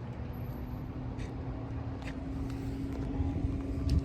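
A vehicle engine running steadily: a low rumble with a steady hum over it and a few light clicks.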